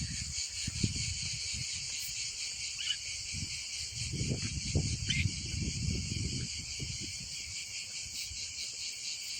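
Steady high-pitched chorus of insects, such as crickets, with irregular low rumbling noise underneath that swells in the middle.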